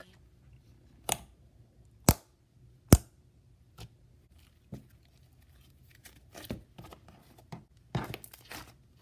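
Homemade slime being played with by hand for ASMR, making sharp sticky pops and clicks: single pops about a second apart at first, then a quicker run of crackling pops near the end.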